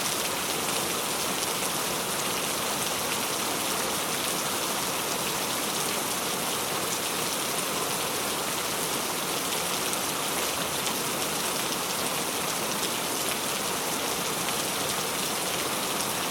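Heavy rain falling hard and steady, a dense even hiss of countless drops on hard surfaces.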